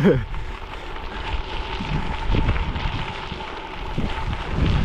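Wind buffeting the microphone of a camera riding on a moving gravel bike, over a steady low rumble from rolling along a gravel trail.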